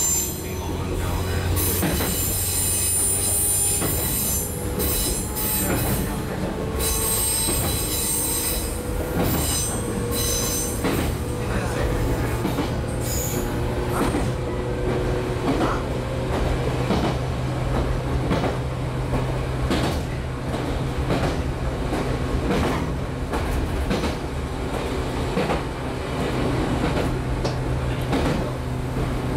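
Interior running sound of a JR 115-series electric train's motor car in motion: a steady rumble and motor hum, with wheels knocking over rail joints. A high thin wheel squeal runs through roughly the first ten seconds.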